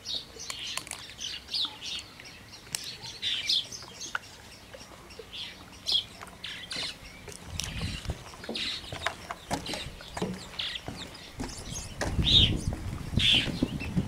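Small birds chirping: many short, high calls scattered throughout. Low rumbling noise comes in over the last few seconds.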